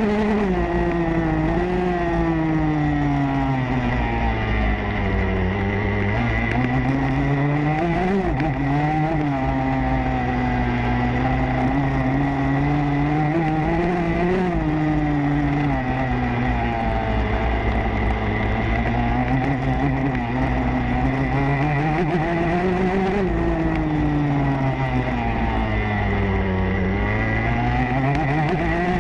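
Motocross bike engine heard from on board, its revs repeatedly rising and falling, with sharp climbs about eight, fourteen and twenty-three seconds in and long easings between.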